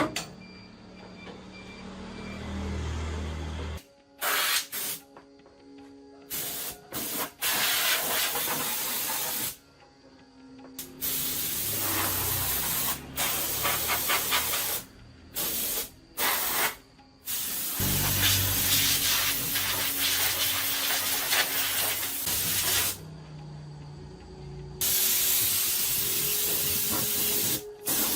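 Hissing spray, like compressed air, in repeated stretches of a few seconds that start and stop abruptly.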